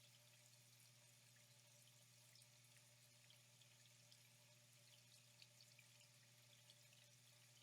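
Faint flowing water, a steady trickle with small drips and splashes ticking through it, over a low steady hum.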